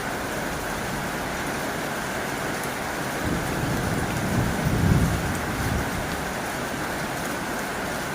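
Heavy rain falling steadily on a tin roof, with a low rumble that swells and fades about midway through.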